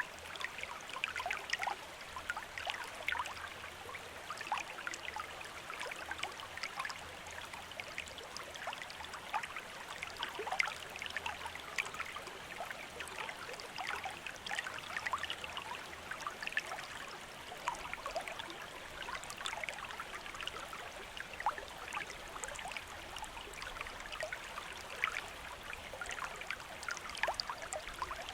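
Small river or stream running steadily, water babbling and trickling with many quick little splashes.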